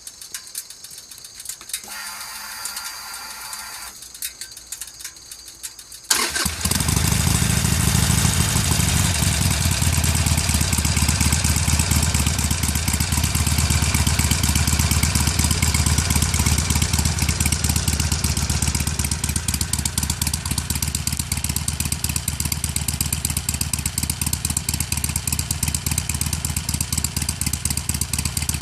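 2013 Harley-Davidson Sportster XL883N's 883 cc V-twin engine breathing through Screamin' Eagle Street Performance slip-on mufflers. It fires up suddenly about six seconds in and settles into a loud, pulsing idle; before that there is only a faint whir.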